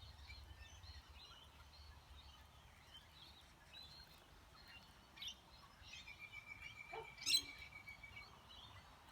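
Birds chirping and twittering faintly, many short calls scattered through, over a steady low rumble. A held, even whistle-like tone runs for about two seconds from around six seconds in, and a single sharp click a little after seven seconds is the loudest sound.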